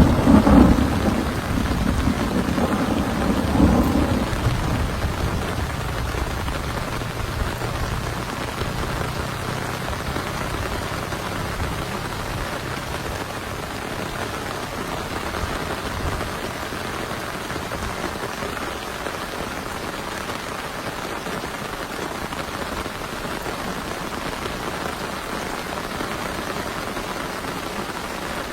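Thunder rolling at the start and dying away over the first few seconds, then heavy rain falling steadily.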